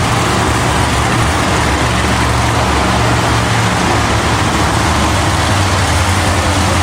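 Monster truck engines running in an arena: a steady low engine drone under a dense wash of arena noise.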